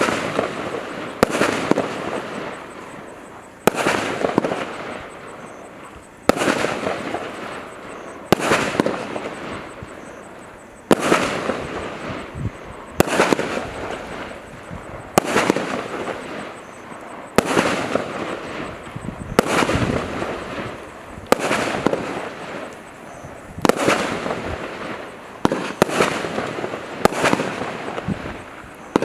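Consumer firework cake from the Celtic 10 Pack firing its shots in sequence. A sharp bang comes about every two seconds, each one trailing off in a fading rush of noise.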